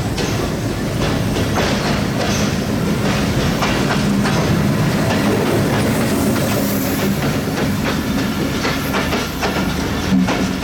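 Train rolling along the track, its wheels clattering over rail joints in irregular clicks, with a steady low hum underneath.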